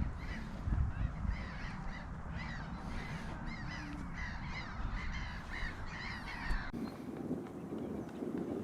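Birds calling in a quick run of repeated calls, about two or three a second, over a low rumble; the calls stop abruptly about two seconds before the end.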